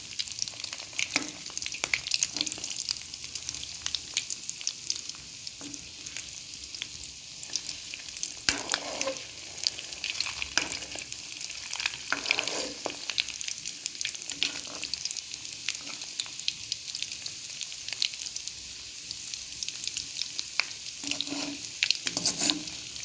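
Breaded egg-and-potato cutlets frying in hot oil in a wok over a low flame: a steady sizzle full of small crackling pops. A few times around the middle, a spatula moves and turns the cutlets in the oil.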